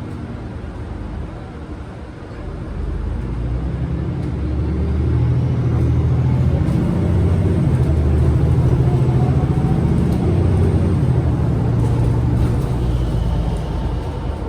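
MAN Lion's City G articulated bus engine pulling away. It grows louder from about three seconds in, runs loudest through the middle and eases off near the end.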